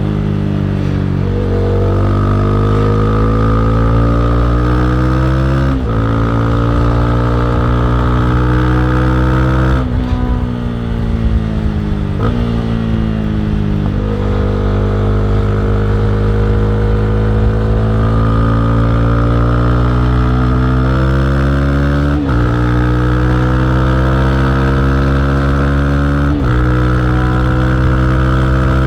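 Honda CB300R's single-cylinder engine and exhaust pulling steadily up through the revs in gear, with a sudden dip in pitch at each gear change, about six, ten, twenty-two and twenty-six seconds in. Between about ten and fourteen seconds in the revs fall away twice, with a quick blip between, as the bike slows.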